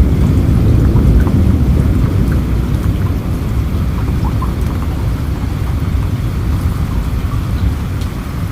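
Steady rain with a deep, continuous rumble of rolling thunder beneath it and scattered drops ticking. The rumble eases a little about three seconds in.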